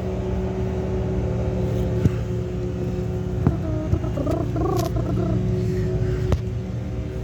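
A vehicle engine idling with a steady low hum, with a few sharp knocks over it and a brief warbling sound in the middle.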